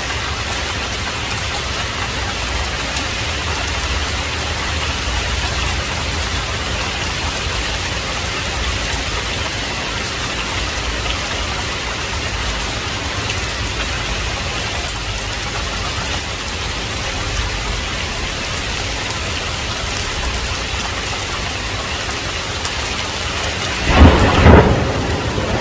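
Heavy rain falling steadily, with a low rumble underneath. Near the end a loud thunderclap breaks out, peaking twice in quick succession.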